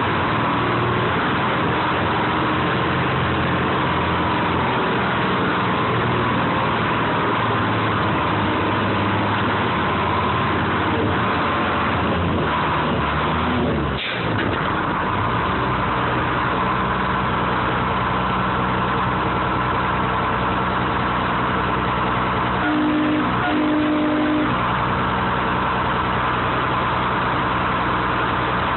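Engine of a 1970 American 7510 crane running steadily as the crane works, heard from the operator's cab. The engine note dips briefly about halfway through, and a short two-part tone sounds near the end.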